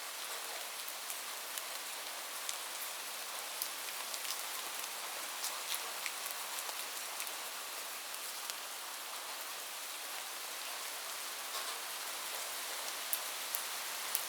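Rain falling steadily on a roof: an even hiss with scattered sharp drop ticks.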